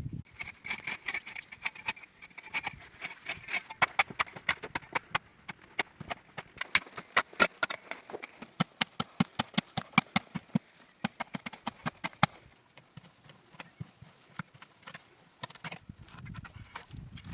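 Rapid, irregular sharp knocks and taps, several a second, typical of hand tools striking wood. A faint high steady tone sits under them for the first few seconds.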